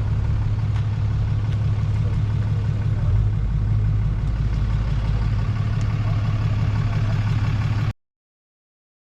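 Car engine idling with a steady low, pulsing rumble, cutting off suddenly near the end.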